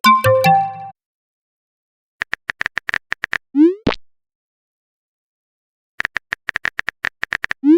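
Chat-app sound effects: a short message chime at the start, then two runs of quick typing taps, each run ending in a short rising blip as a message is sent. There is a silent gap of about two seconds between the runs.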